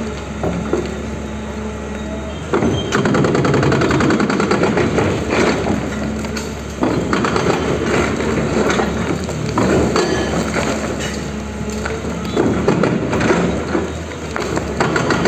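Excavator engine running steadily while the machine breaks up a house, with repeated bouts of cracking and crunching debris from about two and a half seconds in.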